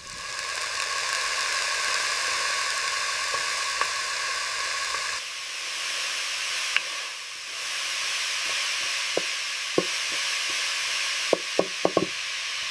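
Steady sizzling, as of food frying in a hot pan, with several sharp pops and crackles near the end.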